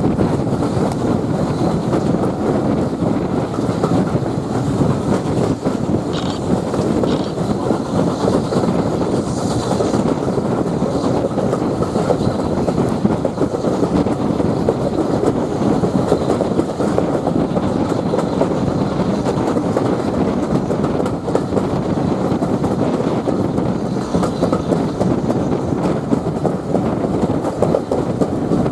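Steam-hauled passenger coaches running at speed, a steady rumble of wheels on the rails heard from an open carriage window.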